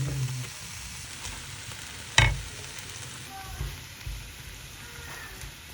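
A steady, even hiss, broken by one sharp knock a little past two seconds in.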